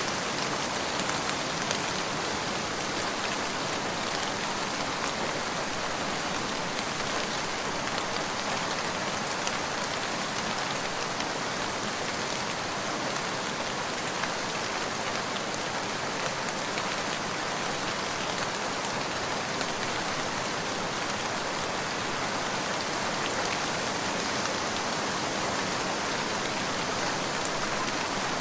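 Steady rain falling, a constant hiss with fine drop ticks scattered through it.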